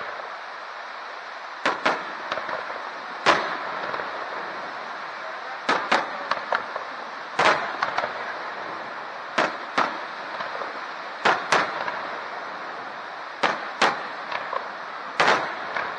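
Aerial firework shells bursting: about fifteen sharp bangs, often in quick pairs, coming every second or two over steady background noise.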